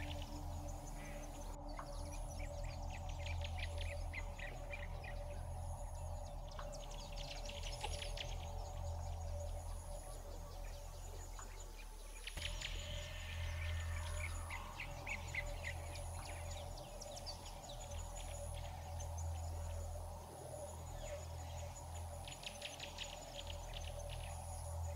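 Birds chirping in bursts of rapid trills, with a faint high pulse about once a second, like an insect, over a steady low hum.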